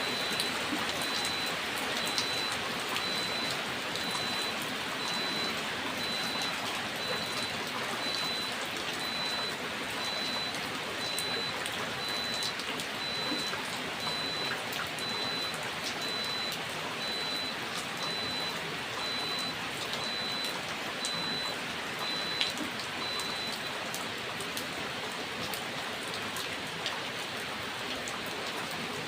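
Steady rain falling, with individual raindrops landing as many small sharp ticks over an even hiss.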